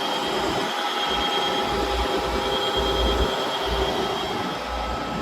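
Hitachi Zaxis 200 LC excavator's Isuzu diesel running at idle with its hydraulic pumps, a steady hiss with thin high whines over an uneven low rumble.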